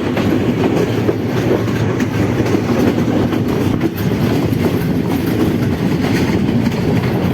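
Passenger train running along the track: a steady rumble of the carriage, with the wheels clicking over the rails.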